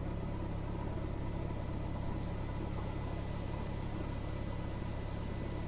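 Cessna 172R's four-cylinder Lycoming engine running at low power while taxiing after landing: a steady, even low drone.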